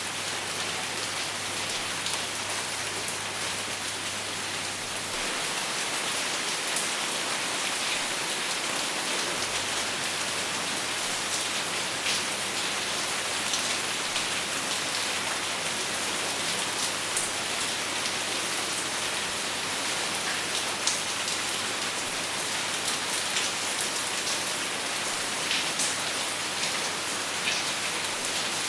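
Steady rain without thunder, falling on a surface, with individual drops ticking here and there.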